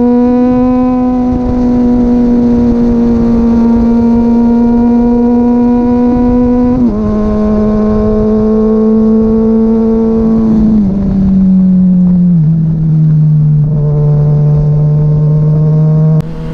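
Honda CBR600RR inline-four engine running through a Two Brothers M2 carbon-fibre slip-on exhaust while riding: a loud, steady engine note that drops in pitch in three sudden steps, about a third of the way in, near two thirds and again shortly after, as the bike shifts up through the gears.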